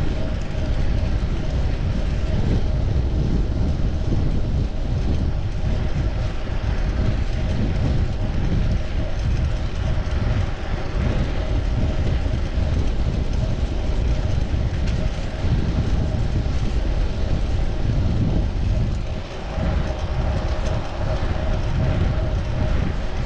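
Wind rumbling on the microphone of a chest-mounted action camera on a moving fixed-gear bicycle, mixed with steady road noise.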